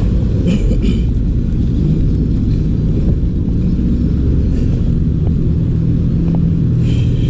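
Steady low rumble of a motor vehicle with road and wind noise, with a faint engine drone coming up in the second half.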